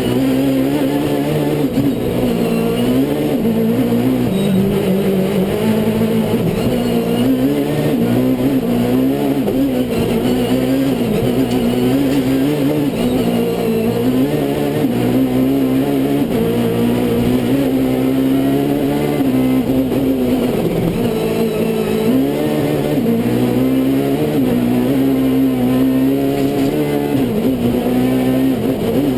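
Rally kit car engine running hard. Its pitch rises and falls again and again as it revs up and down, steady and loud throughout.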